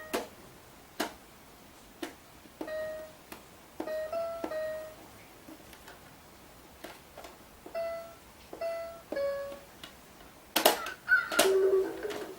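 Short electronic toy notes, each starting with a click of a pressed button, played one at a time every half second to a second at slightly varying pitch. A loud clatter of knocks comes near the end.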